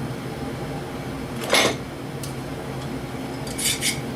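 Handling noise of hardware being moved on a workbench: a short scrape about a third of the way in and two quick clicks near the end, over a steady low hum.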